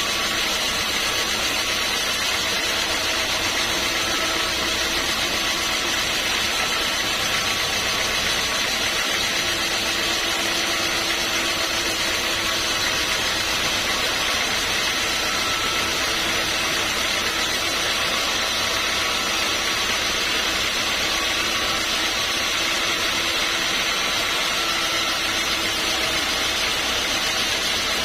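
Sawmill machinery running steadily, an even mechanical drone with a faint hum in it and no break or change.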